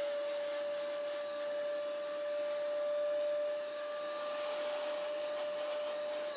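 Small vacuum cleaner motor running with a steady high whine, switched off at the end so its pitch falls as it winds down.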